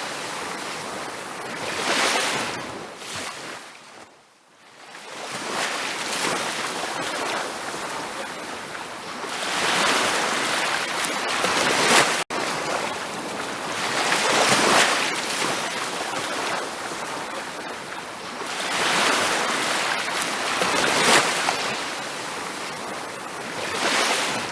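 Ocean surf breaking and washing up a beach, the rush of water swelling and fading every few seconds, with one quiet lull between waves and a split-second dropout in the sound near the middle.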